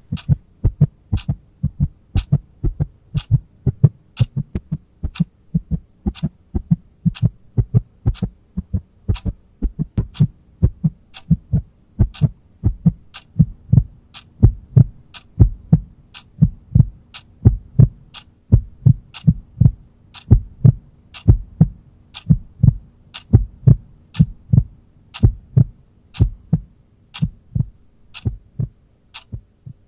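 Heartbeat sound effect: loud, regular lub-dub double thumps, about one a second, over a steady low hum.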